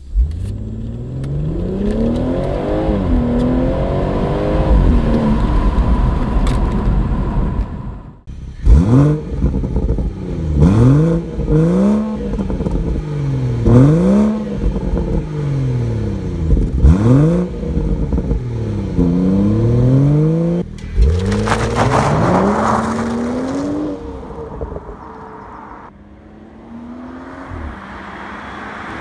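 BMW 440i's 3-litre turbocharged straight-six pulling hard up through the gears, heard in the open-top cabin. It is then blipped in a quick run of revs that rise and fall, heard at the exhaust tailpipes, and then accelerates again and is heard from farther off.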